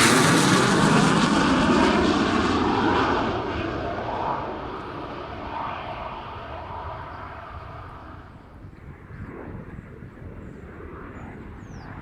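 Panavia Tornado GR4's twin RB199 turbofan engines rumbling as the jet passes close by and then recedes, its pitch falling and the noise fading away over about eight seconds.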